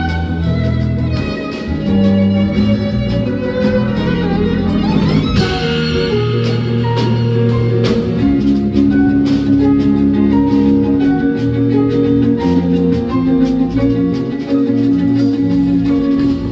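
Live jazz instrumental: a violin with a piano trio (piano, double bass, drums) playing a slow tune, with held notes over a walking low bass line and light cymbal strokes.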